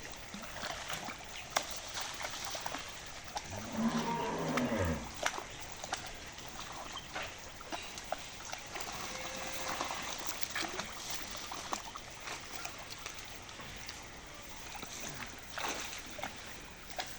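A cow mooing once about four seconds in, a low call lasting over a second that falls in pitch, over a background of scattered small clicks.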